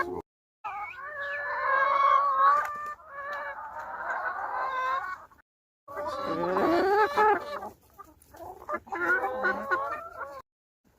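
Chickens clucking and squawking loudly, in several stretches broken off abruptly by short silent gaps.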